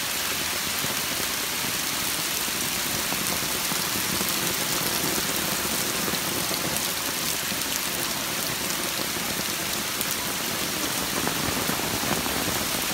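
Heavy rain falling steadily: an even hiss dotted with the ticks of individual drops hitting the ground.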